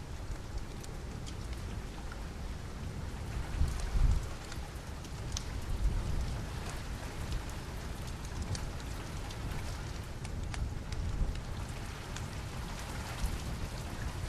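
Steady rain falling, mixed with the scattered sharp crackles of a wood fire in a fireplace. Low rumbles swell briefly about four and six seconds in.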